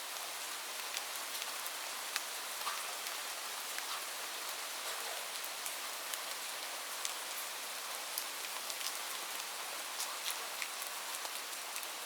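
Light rain falling steadily: a soft hiss with many separate drops ticking on a surface.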